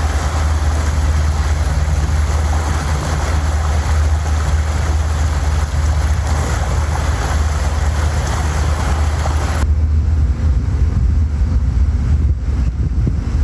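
Motorboat under way: a steady low engine drone with wind buffeting the microphone and water rushing past the hull. About ten seconds in, the wind and water hiss drops off suddenly while the engine drone carries on.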